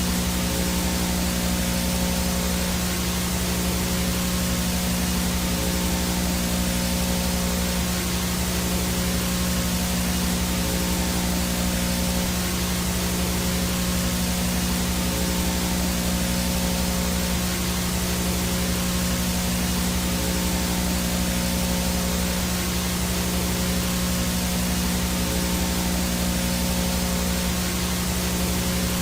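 Analog VHS static with no signal: a steady hiss of snow with a low hum under it and a thin high whine above.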